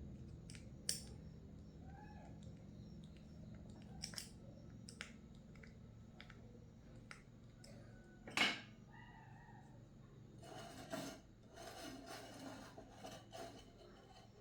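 Scattered small clicks and taps of hand tools and small parts being handled, one sharper knock about eight seconds in, then a few seconds of scratchy scraping and snipping near the end, over a faint low hum.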